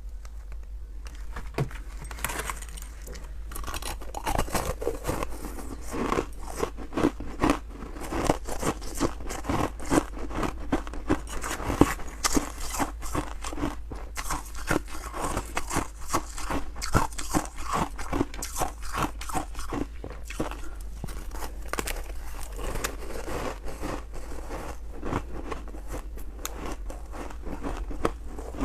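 Close-up crunching and chewing of freezer frost: rapid, irregular crisp crunches from biting and chewing the powdery ice, over a steady low hum.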